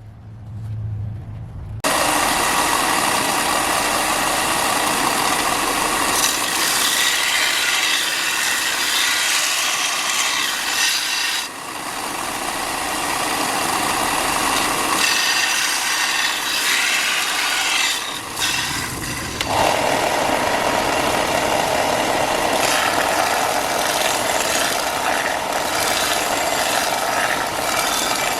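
A power sanding tool runs continuously against a workpiece, making a steady abrasive rasp over a faint motor tone. The rasp starts about two seconds in and changes character about twenty seconds in.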